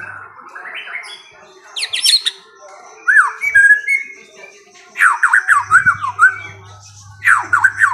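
A songbird singing: a steep up-and-down sweep about two seconds in, a few clear whistled notes, then fast runs of quick falling notes from about five seconds in and again near the end, over a low steady hum.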